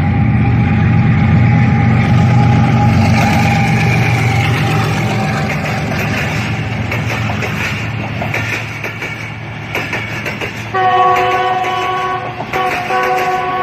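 A diesel locomotive's engine rumbles loudly as it hauls a passenger train past, then the coaches' wheels clatter over the rail joints. Near the end a multi-note train horn sounds twice, with a short break between.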